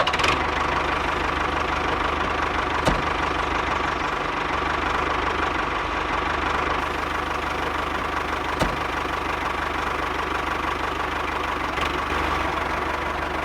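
A small motor running steadily with an even whirr, with a sharp click about three seconds in and another near nine seconds.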